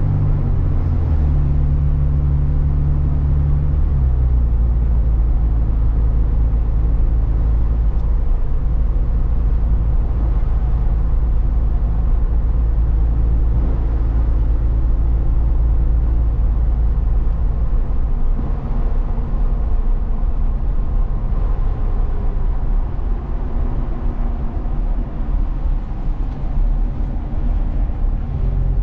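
Truck engine and road noise while driving. The engine note shifts during the first few seconds, then settles into a steady low rumble.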